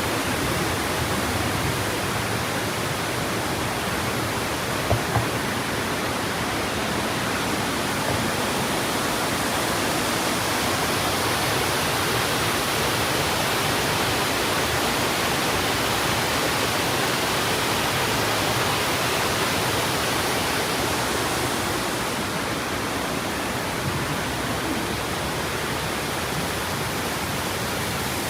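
Waterfall: a steady, loud rush of falling water. Two brief low thumps about five seconds in.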